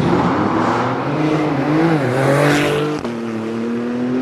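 A car's engine revving hard as it accelerates away, its pitch climbing. About three seconds in the pitch drops suddenly at a gear change, then climbs steadily again as the car pulls away.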